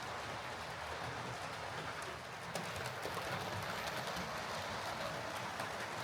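Hornby OO gauge Class A4 model steam locomotive running steadily on model track, a continuous motor and wheel rumble with faint ticking from the rails. The locomotive is running again after a failed wheel pickup was repaired.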